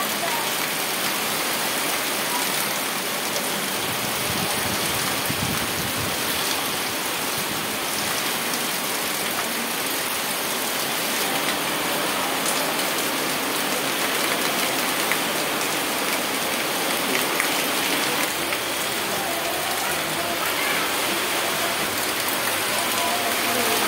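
Steady downpour of rain splashing onto a wet concrete yard, an even rushing hiss.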